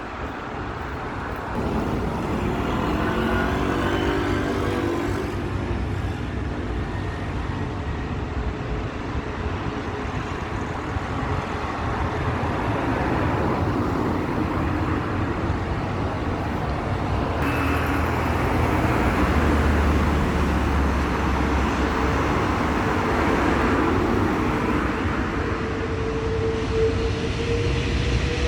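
Jet engines of a British Airways Airbus A380 during its take-off run: a steady roar with a low rumble, and a tone rising near the end.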